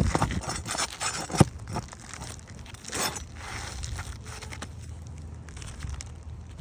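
Asphalt roof shingles crackling and scraping as they are worked loose to get at the nails, with scattered sharp clicks, the loudest a little over a second in.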